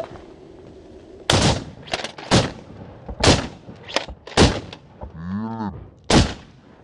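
A volley of shotgun shots from several waterfowl hunters firing at ducks, about eight sharp blasts in quick, uneven succession starting about a second in, with a last shot near the end. A short pitched call sounds between the last two shots.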